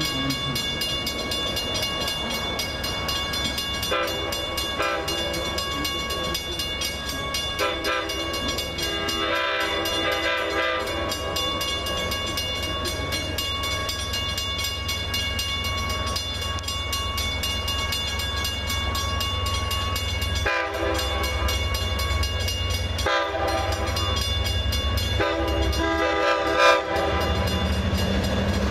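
Diesel train running by with its horn sounding repeatedly over the steady engine hum, the blasts swelling several times and breaking off briefly a few times in the second half.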